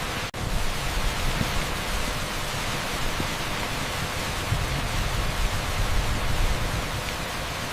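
Torrential rain on an asphalt street, heard as a steady, dense hiss like pink noise, with a momentary dropout just after the start.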